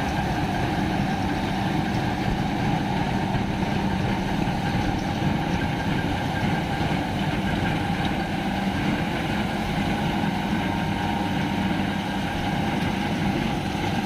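Farmtrac 6065 tractor's diesel engine running at a steady, unchanging speed.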